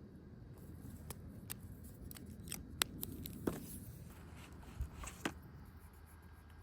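Small handling noises: a string of about a dozen short, sharp clicks and snips with light rustling, between about one and five seconds in.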